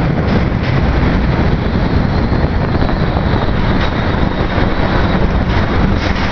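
Steady rushing wind noise on the microphone from riding a bicycle, heavy in the low end and without breaks.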